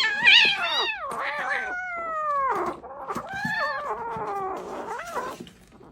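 A cat yowling in a series of drawn-out, wavering calls, the longest of them falling in pitch about two seconds in.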